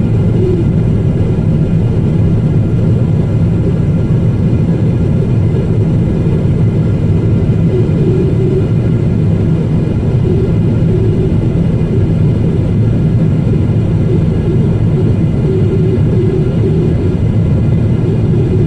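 Boeing 777-200ER airliner heard from inside the economy cabin during descent: a loud, steady rumble of engine and airflow noise with faint steady tones, unchanging throughout.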